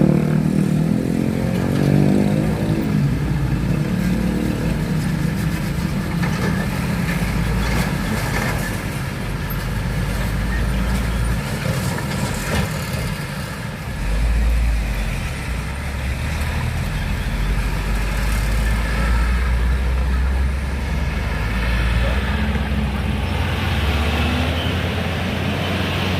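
Road traffic passing: engines of motorcycles, cars and trucks running with a continuous low rumble, one engine dropping in pitch in the first two seconds.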